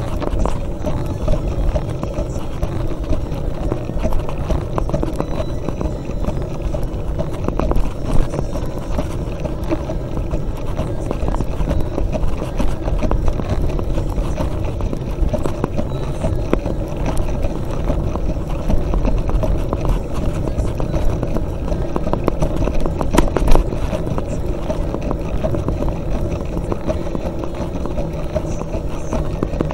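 Mountain bike rattling and clattering over a rough trail, many small irregular knocks over a steady low rumble of tyre and wind noise, with a sharper knock about 8 seconds in and another about 23 seconds in.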